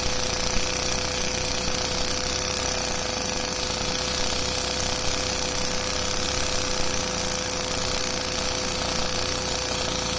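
LEGO flathead vacuum engine running steadily on a vacuum cleaner's suction: a fast, continuous clatter of plastic parts over the steady whine of the vacuum cleaner.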